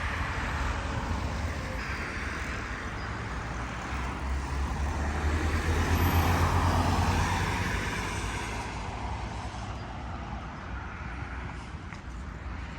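Street traffic with a vehicle passing: a low rumble and road noise swell to a peak about six seconds in, then fade away.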